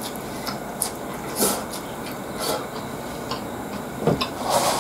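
Close-up chewing of a lettuce-wrapped yakiniku burger, with short crisp crunches of the fresh lettuce leaves every second or so. Near the end comes a louder papery rustle as a tissue is pulled from the box.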